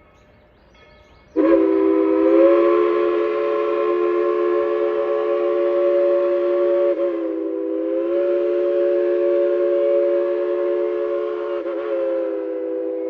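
Steam chime whistle of Tweetsie Railroad's steam locomotive #190, newly fixed, sounding one long, loud chord of three close notes. It starts abruptly about a second and a half in and is held on, wavering slightly twice.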